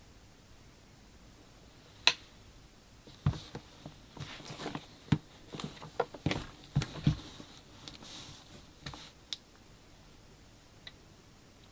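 Packaging and gear being handled: a sharp click about two seconds in, then a run of light knocks, clicks and short rustles, and a faint tick near the end.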